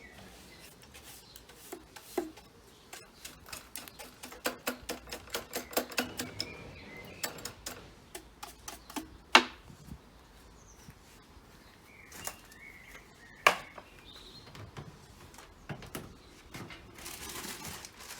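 Rapid clattering clicks and a few sharp knocks as empty coconut-shell bird feeders are handled, with two loud knocks about halfway through and a short rustle near the end. A few faint bird chirps are heard between them.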